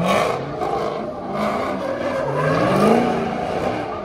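Car engine revving hard, its pitch climbing and falling back a couple of times, over a steady rush of noise.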